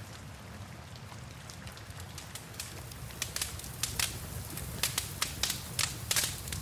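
Wood fire crackling with sharp pops, sparse in the first few seconds and then coming thick and fast in the second half, over a steady low rumble and an even hiss of rain.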